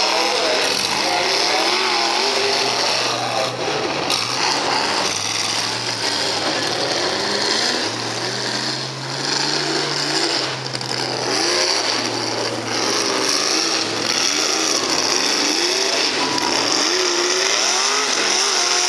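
Mega truck engine running hard, its revs rising and falling again and again over a loud steady din of engine noise.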